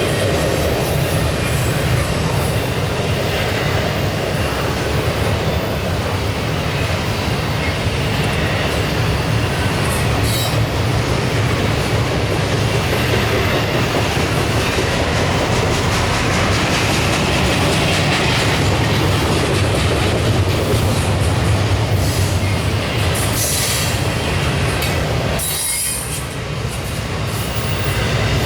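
Double-stack intermodal freight train rolling past: a steady rumble of steel wheels on rail, with a few short high-pitched wheel squeals.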